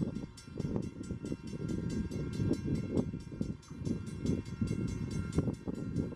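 Low rumble of a distant train approaching along the line, with wind gusting on the microphone.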